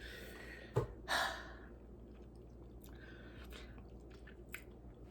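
A woman breathing out hard, a sigh or gasp about a second in after a short click, then softer breaths and a few small mouth clicks, as she recovers from the sting of a sour lemon and spicy food.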